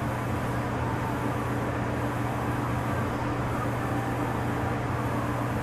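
A steady machine hum at constant pitch with a noisy rush over it, unchanging throughout.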